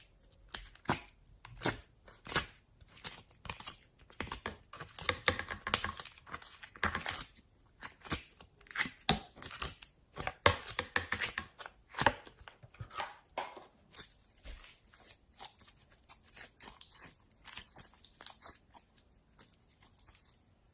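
Slime being worked by hand, stretched, pressed and pulled apart, giving a dense, irregular run of sticky crackles, pops and tearing sounds that thins out near the end.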